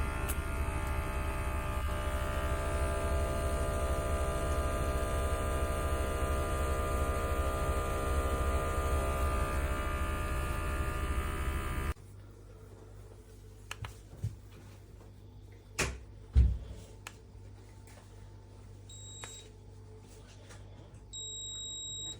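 A portable electric espresso machine's pump buzzes steadily and cuts off suddenly about twelve seconds in. A few clicks and knocks follow, then a short high beep and, near the end, a longer beep.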